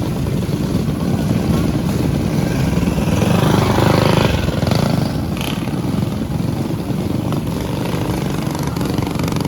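Mini bike engines running hard in a race, a steady engine drone that swells to its loudest about four seconds in as the bikes come past, then eases.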